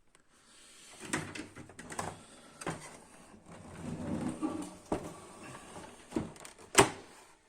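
Plastic printer housing parts being handled and taken apart: a string of clicks, knocks and scrapes, with one louder knock near the end.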